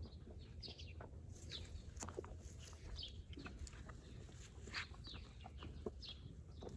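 Faint bird calls in the background: short, scattered chirps and clucks over a low hum.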